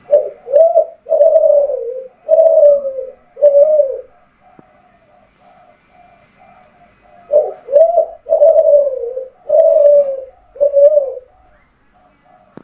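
Derkuku kelantan (a spotted dove bred for song) cooing in full voice: two phrases of about five deep coos each, the first right at the start and the second about seven seconds in. Fainter, shorter coos at a similar pitch carry on in the gap between them.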